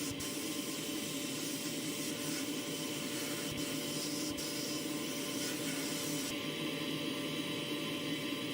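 A steady hiss with a low hum underneath, running without change.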